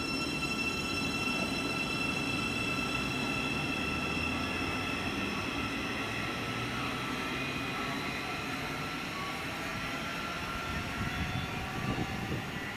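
A train running past, with a steady rumble and a high whine that slowly falls in pitch, and a short run of knocks near the end.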